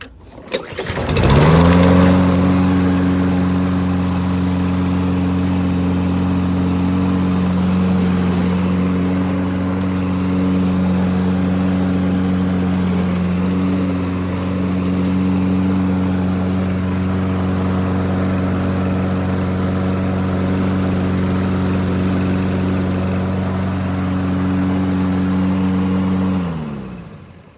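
Toro Recycler walk-behind mower's small gas engine pull-started: it catches about a second in and runs steadily at full speed, then is shut off near the end and winds down to a stop. The crankcase is overfilled with oil, which the owner takes for the cause of its smoking.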